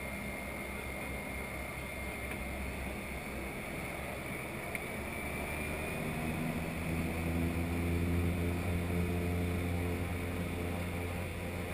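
Cessna 208 Caravan's single Pratt & Whitney PT6A turboprop and propeller running, heard from inside the cockpit, with a steady high turbine whine over a low drone. About six seconds in, the power comes up and the propeller drone grows louder and more tonal.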